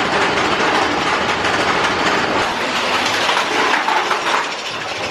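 Big Thunder Mountain Railroad mine-train roller coaster clattering along its track, a loud, dense clatter of wheels on rail.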